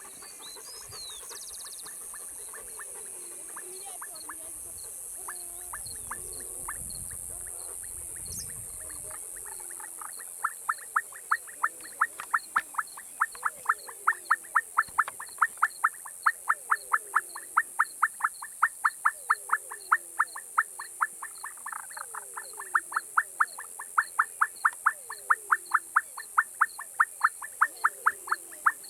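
Night chorus of frogs and insects: a steady high insect drone with short falling frog calls every second or two. About ten seconds in, a frog starts a rapid run of sharp, evenly spaced calls about three a second, which is the loudest sound.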